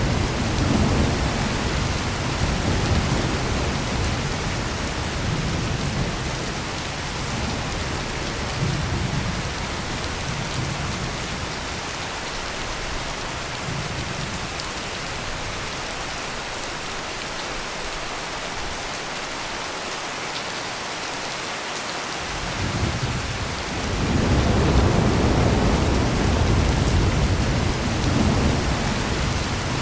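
Heavy rain pouring steadily, with rolling thunder rumbling low underneath. The thunder dies away through the middle, and a new roll builds about two thirds of the way through and carries on.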